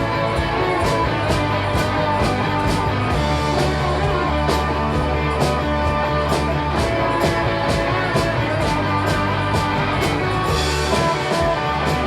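Live rock band playing an instrumental stretch: electric guitars and organ over drums keeping a steady, even beat.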